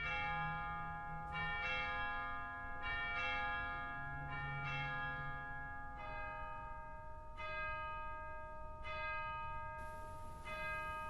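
Church bells ringing, a new stroke about every second and a half, each note ringing on under the next.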